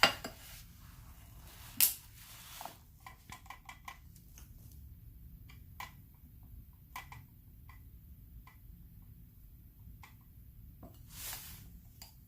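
Faint clicks and taps of a paintbrush working paint on a plate while watercolours are mixed, with a sharper clack about two seconds in and a short swish near the end.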